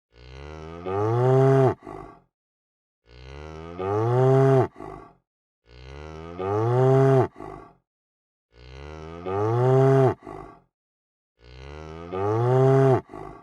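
Cow mooing: the same moo repeats about every three seconds, five times, with dead silence between. Each moo swells to a loud held note, drops in pitch at the end, and is followed by a short second call.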